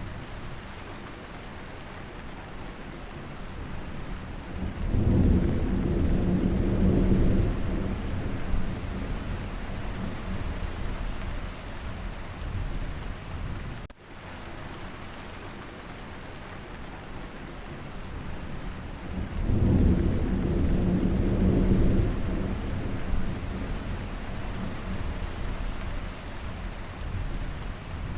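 Steady heavy rain falling, with two deep rolls of thunder rumbling for a few seconds each, about five seconds in and again about twenty seconds in.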